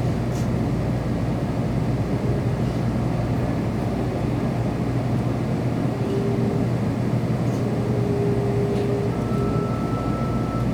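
Cabin noise of a Kyushu Shinkansen car in motion: a steady rumble with a low hum. A faint whine comes and goes in the second half, and a thin higher tone starts near the end.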